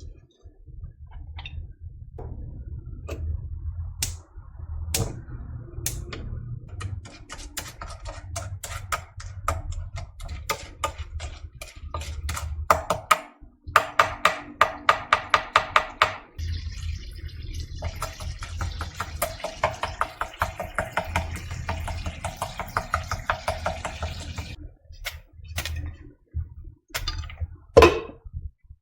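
Popcorn kernels popping: scattered single pops at first, building to rapid popping about halfway through, then thinning out to a few last pops near the end. A hiss sits behind the pops for several seconds in the second half, and there is a low hum underneath throughout.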